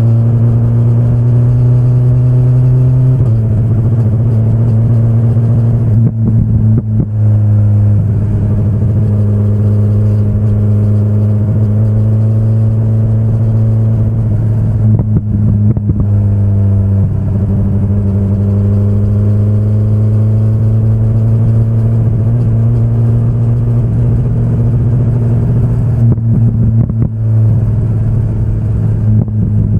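2025 BMW S1000RR's inline-four engine running at moderate revs. The revs drop abruptly several times and climb gently in between, with brief dips in loudness as the throttle comes off.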